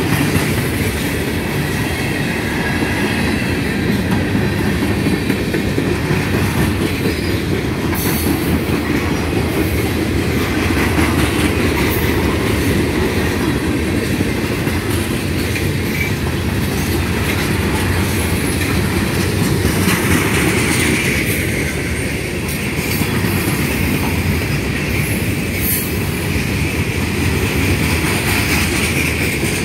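Freight cars of a long freight train (boxcars, coil steel cars, tank cars) rolling past at close range: a steady heavy rumble of wheels on rail with clicking over the rail joints. A high squeal from the wheels rides over it and grows stronger about twenty seconds in.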